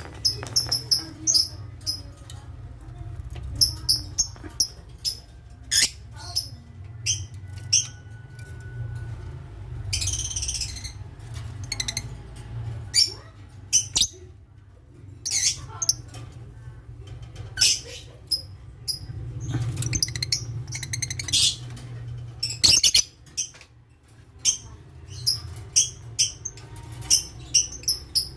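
Lovebirds calling: many short, shrill chirps and squeaks, often in quick clusters, over a low steady rumble.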